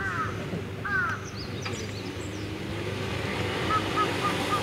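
Birds calling, with two arched calls about a second apart, then higher chirps and a run of short calls near the end, over a vehicle engine running steadily.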